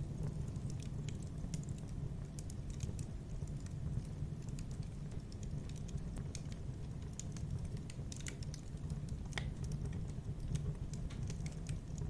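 Fireplace wood fire crackling: scattered sharp pops and snaps over a steady low rumble of burning, with one stronger pop about three quarters of the way through.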